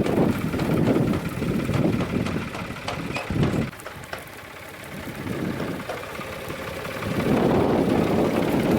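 Farm tractor engine running at field work, its rumble fading for a few seconds in the middle and coming back louder near the end.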